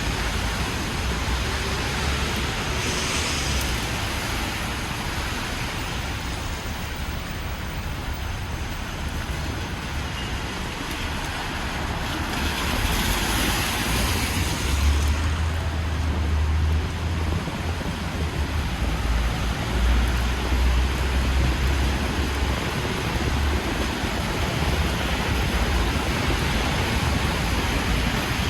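Street sound of rain and traffic on a wet city avenue: a steady hiss, with tyres swishing past on the wet road, loudest about 13 seconds in, and low wind rumble on the microphone in the second half.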